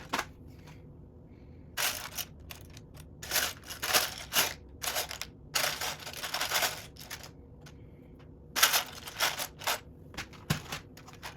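Loose plastic Lego bricks clattering in repeated bursts as hands rummage through a pile of pieces.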